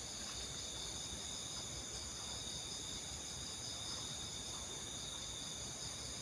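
Steady high-pitched chorus of forest insects, several shrill buzzing tones layered without a break.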